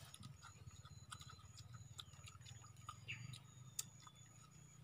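Faint crunching and chewing of crispy fried swamp cabbage fritters: scattered small crisp clicks over a low steady hum.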